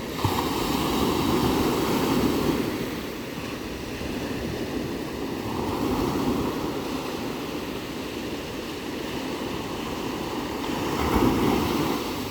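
Ocean surf: waves washing in and breaking, the rush swelling three times, a few seconds apart.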